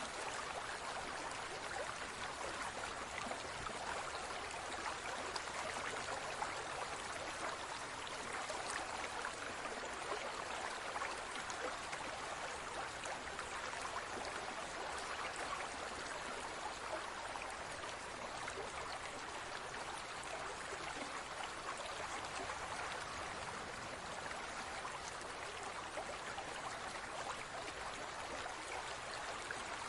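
Steady trickling and bubbling of water in a large aquarium, with small droplet-like splashes throughout.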